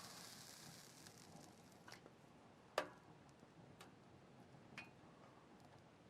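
Burning firewood crackling faintly: a few sharp, irregular pops, the clearest about three seconds in.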